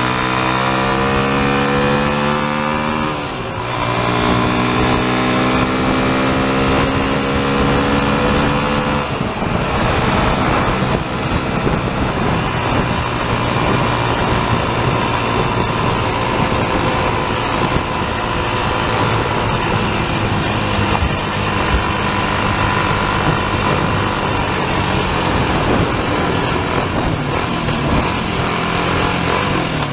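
Aprilia RX125 trail bike's single-cylinder engine accelerating, its note rising, dipping briefly at a gear change about three seconds in, then rising again. About nine seconds in it settles to a steady cruise under loud wind rush.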